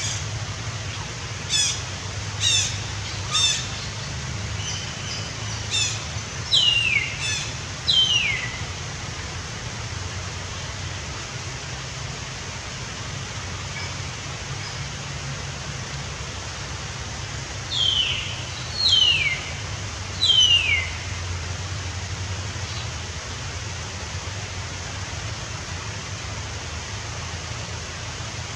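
Birds calling: a few short sharp chirps, then quick downward-sliding whistles in two groups, the second group about ten seconds after the first, over a steady hiss.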